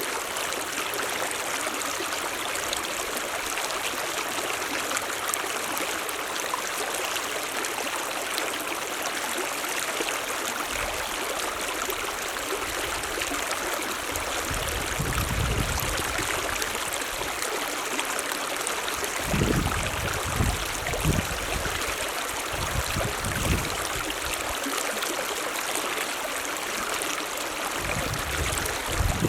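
Mountain stream running steadily, an even rushing hiss of water. A few brief low rumbles come in around the middle.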